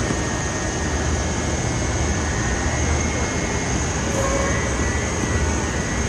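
Steady, loud machinery running on a rock wool production line: a continuous low hum under dense hiss, with a thin steady high whine on top.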